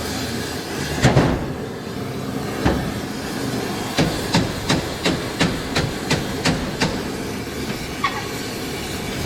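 Hammer blows on a steel exhaust header tube being reshaped: one heavy strike about a second in and another a little later, then a quick run of about nine strikes at roughly three a second. A steady hiss runs underneath.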